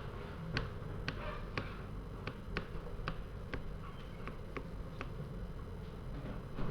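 Trading cards clicking against the tabletop in a quick, uneven run of sharp light clicks, about two a second, over a steady low room hum.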